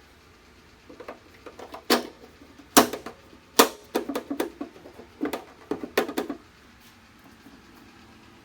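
Sharp plastic clicks and knocks as the Jeep Wrangler's door trim pieces are pressed back into place, a dozen or so over about five seconds with the loudest near the start.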